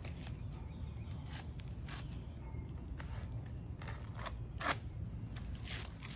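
Cutting asphalt 3-tab shingles into ridge cap pieces: a series of short, irregular scraping cuts, the loudest a little under five seconds in, over a low steady hum.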